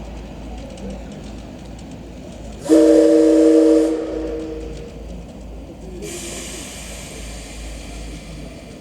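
Steam locomotive's whistle blown once, a short steady blast of about a second, about three seconds in. About six seconds in a steady hiss of escaping steam starts and keeps on.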